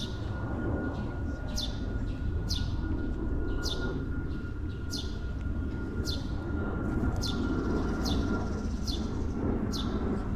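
A bird calling over and over with short high chirps that sweep downward, about one a second, over a steady low rumble and a faint constant high tone.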